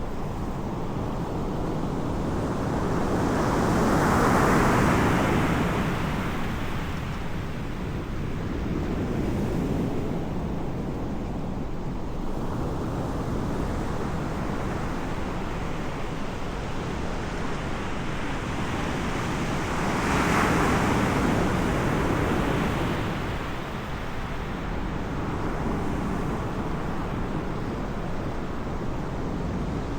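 Ocean surf breaking on the shore: a steady rushing hiss that swells twice, once a few seconds in and again about two-thirds of the way through, as waves break. Some wind on the microphone.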